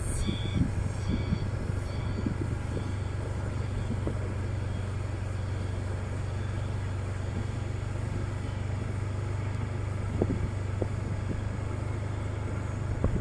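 Motorcycle engine running with a steady low hum. A few faint high chirps sound in the first two seconds, and two short knocks come about ten seconds in.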